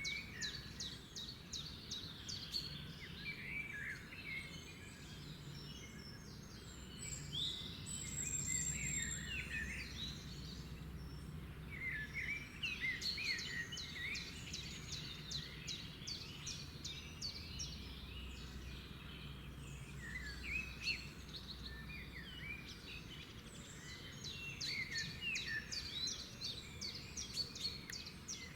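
Several wild birds singing together: overlapping chirps and quick rattling trills that come in bursts, busiest near the start, about halfway through and near the end, over a low steady background rumble.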